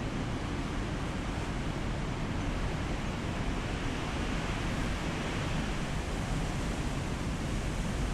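Heavy winter storm surf: waves breaking in a continuous, even rush of noise with no distinct crashes.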